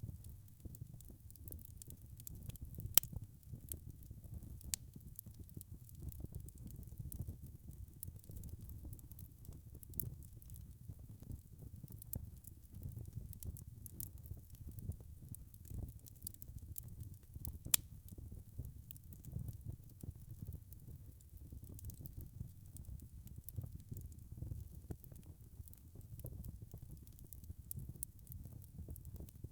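Log fire burning in a fireplace: a steady low rumble of flames with frequent small crackles, and two louder pops, one about three seconds in and one a little past halfway.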